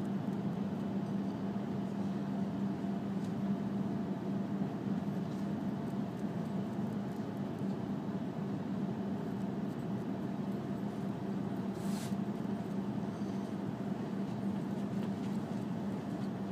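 Running noise inside an E5 series Shinkansen car travelling between stations: a steady rumble with a constant low hum, and one short click about twelve seconds in.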